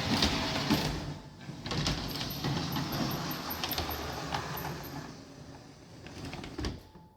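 Model railway train running on the layout's track, a rumble with clicks from the rails, growing quieter and fading out near the end, with one sharp knock just before it goes quiet.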